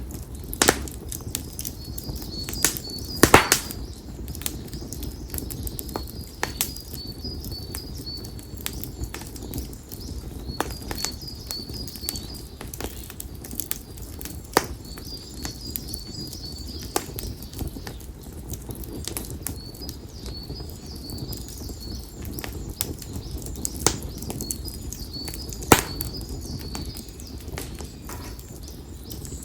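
Campfire of split konara oak firewood crackling, with irregular sharp pops and a loud cluster of pops about three seconds in, over the low rush of the flames. A bird repeats short phrases of high chirping notes every few seconds.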